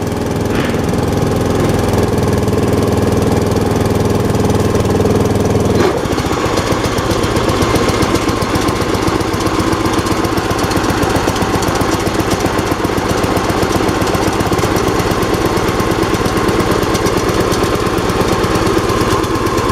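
MTD riding lawn tractor's engine running with the snowblower attachment fitted. About six seconds in the sound changes abruptly from a smooth, even note to a rougher, more uneven run that carries on to the end.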